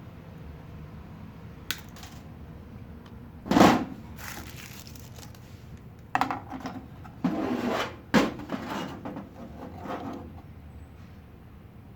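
Handling noises from objects and tools on a work surface: a sharp click, then a loud knock about three and a half seconds in, then several seconds of rustling and scraping with another sharp click in the middle.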